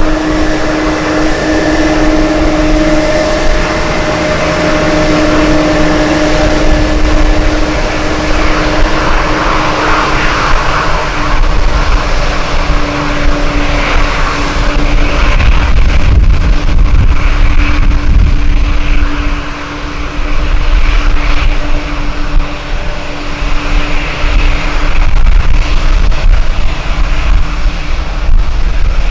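Jet airliner landing in strong wind: a steady engine whine over a broad rumble that swells about twelve seconds in, with wind gusts buffeting the microphone.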